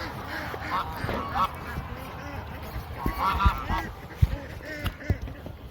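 Geese honking: a run of short calls in scattered bursts, with a few low thumps among them.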